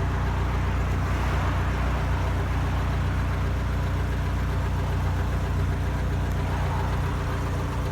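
Mk6 Volkswagen Jetta's 2.0-litre non-turbo four-cylinder engine idling steadily on a cold start, carrying the unexplained noise that it makes for about the first minute after sitting overnight.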